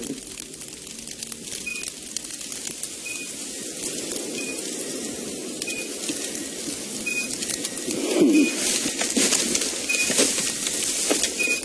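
A bird's short high chirp repeats at an even pace about every second and a half over a soft outdoor background. Rustling of dry grass grows busier in the second half.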